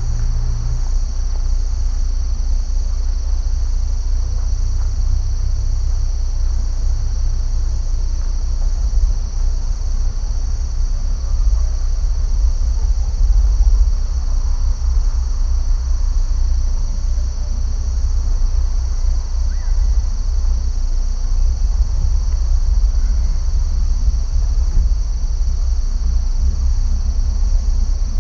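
Steady, high-pitched chorus of insects that holds unbroken throughout, over a constant low rumble.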